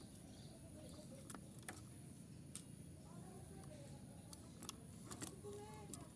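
Faint cooing of a zebra dove (perkutut), a few short low calls with sharp clicks between them.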